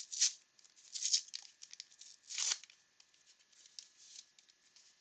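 A 1989 Upper Deck baseball card pack's wrapper being torn open: three short rips, the loudest about a second in, with light crinkling between them.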